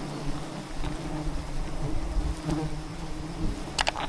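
Wild bees swarming around a large hive, buzzing steadily. A couple of sharp clicks come near the end.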